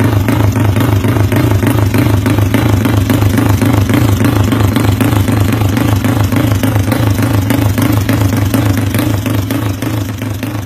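Yamaha Mio scooter engine in a Thai-style tune, idling loudly and steadily with a fast, even chop: the helicopter-like sound the setup is made for.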